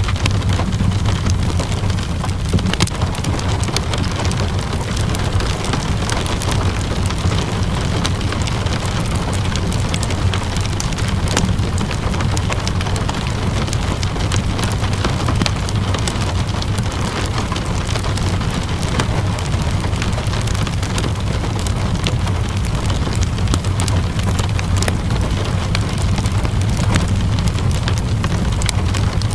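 Steady rainfall mixed with a crackling wood fire: an even hiss of rain over a deep, constant rumble, with many small, sharp crackles scattered throughout.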